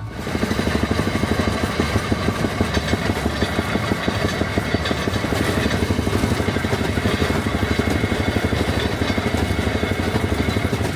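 Railroad speeder's small engine running as the motorcar travels along the track, a steady, fast, even pulsing with a strong low end.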